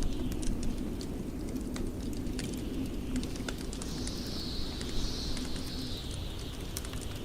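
Wood fire crackling with scattered sharp pops over a steady low rumble of blizzard wind. About halfway through, a gust adds a hiss that swells and then slowly falls in pitch.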